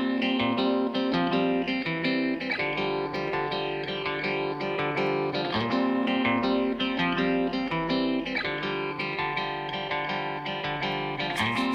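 Background music: plucked guitar playing a steady, rhythmic pattern of notes.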